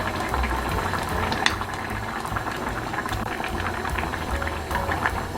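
Pot of budae-jjigae (Korean army stew) bubbling at a boil, a steady dense crackle of popping bubbles over a low rumble.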